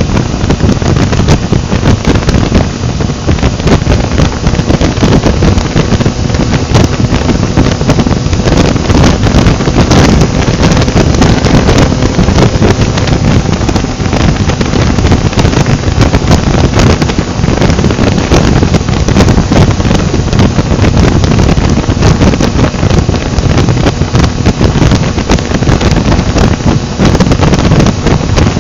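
Heavy wind buffeting a microphone on a motorcycle at road speed, steady throughout, with engine and road noise underneath.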